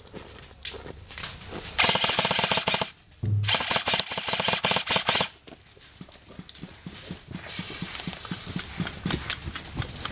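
Airsoft guns firing on full auto: two loud rapid bursts, the first about two seconds in and the second from about three and a half to five seconds, then fainter rapid fire going on for the rest.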